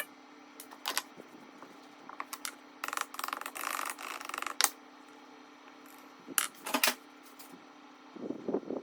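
Metal parts and hand tools clinking and clicking, with a rapid clicking rattle lasting over a second about three seconds in, over a steady low hum.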